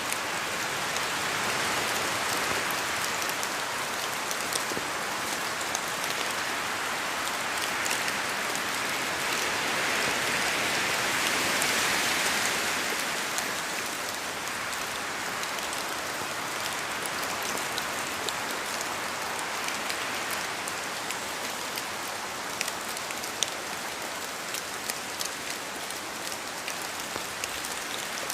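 Steady rain falling in a forest, a dense hiss of drops with individual close drops ticking. The rain swells for a few seconds near the middle, and single louder drops stand out more toward the end.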